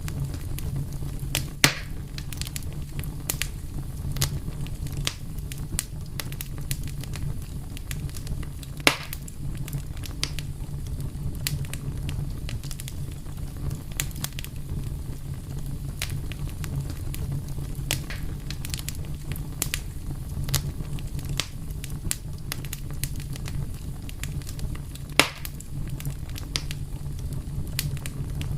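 Fire crackling: a steady low rumble under scattered sharp pops and snaps. Three louder pops stand out, about a second and a half in, about nine seconds in, and about twenty-five seconds in.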